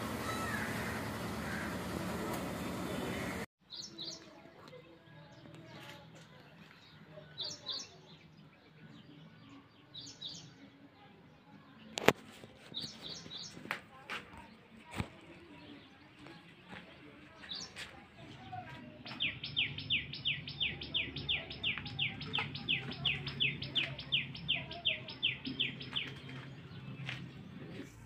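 Steady outdoor background noise that cuts off abruptly a few seconds in, followed by small bird chirps: short paired chirps every few seconds, then a fast run of downward-sliding chirps, about three a second, for several seconds near the end.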